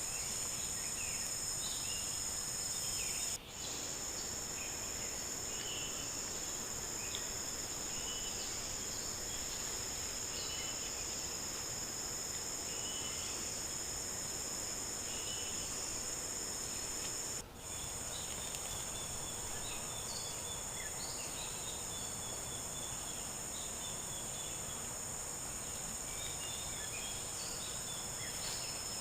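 Rainforest insect chorus: a steady high-pitched buzzing with scattered short chirps over it. It cuts out briefly twice.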